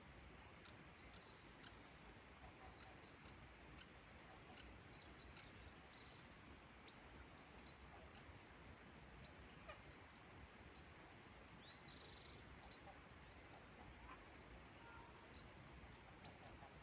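Near silence: faint rural dusk ambience, a steady hiss with scattered faint distant bird chirps and four sharp, brief high ticks a few seconds apart.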